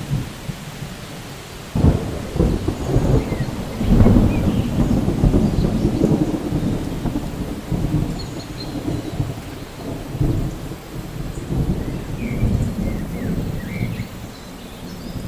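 Rain falling steadily in a thunderstorm, with thunder: a sudden crack about two seconds in, then a long low rolling rumble that slowly dies away.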